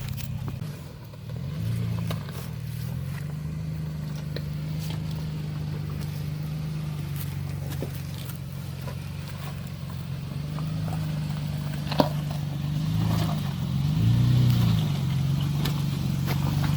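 2010 Toyota Tacoma TRD Off Road engine running at low revs as the truck crawls over a trail obstacle. It revs up briefly about two seconds in and twice more near the end, with scattered clicks and one sharp knock about two-thirds of the way through.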